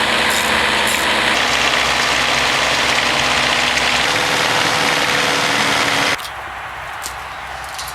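Pezzolato mobile sawmill's saw running loud and steady through a cedar log over its engine; about six seconds in the noise drops off suddenly, leaving the engine running more quietly with a few light clicks.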